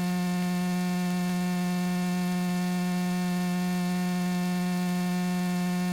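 Steady electrical hum with a stack of even overtones, heard through a light aircraft's intercom audio feed, with no change in pitch or level.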